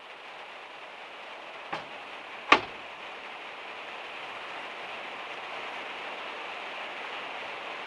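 Steady rain drumming on a van's metal roof, a little louder towards the end. Two sharp knocks come a bit under a second apart, about two seconds in, and the second one is louder.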